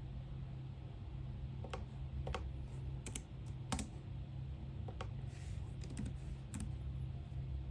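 A few scattered keystrokes on a computer keyboard, irregular single clicks with pauses between them, over a steady low hum.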